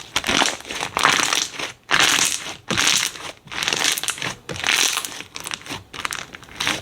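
Slime being squeezed and pressed by hand, giving repeated crackly, crunchy bursts about once a second with short pauses between.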